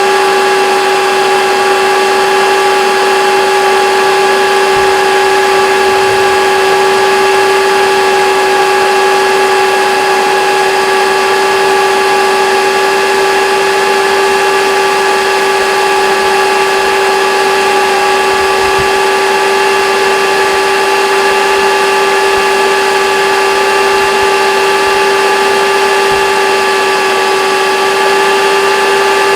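Hoover Dimension Supreme vacuum cleaner running steadily: a constant motor whine over the rush of air, holding one pitch without change.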